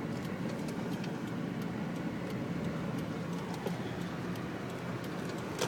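Car in motion, a steady low rumble of engine and tyres with faint light clicks.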